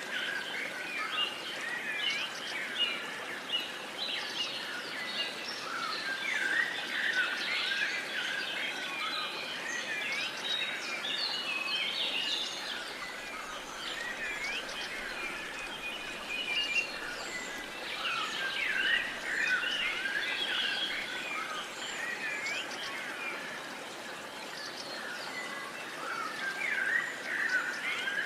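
Many birds chirping and singing at once, short overlapping calls throughout, over a steady background hiss of outdoor ambience.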